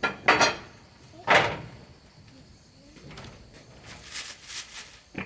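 A few loud, sharp knocks, the loudest about a second and a half in. They are followed by softer scraping noises and a single click near the end.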